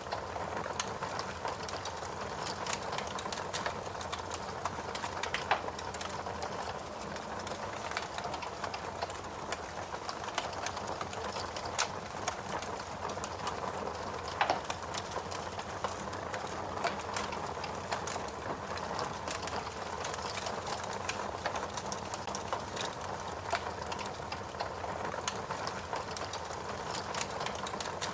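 Fire crackling: a dense, irregular run of small pops and snaps over a low steady hiss, with a few louder pops, the loudest about halfway through.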